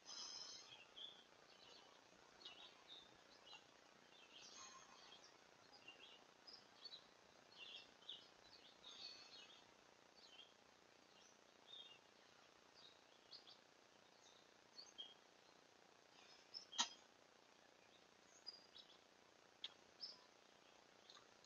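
Faint woodland bird calls: many short chirps and tweets scattered throughout, over a low hiss. One sharp click about three-quarters of the way through.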